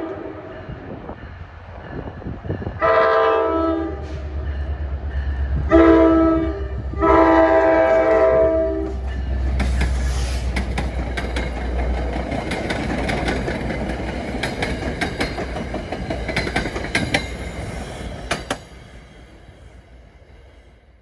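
NJ Transit diesel commuter train's multi-tone air horn sounding for a grade crossing: a long blast, a short one and a long one. The locomotive rumbles past, then the coaches rush by with rapid wheel clicks, fading away near the end.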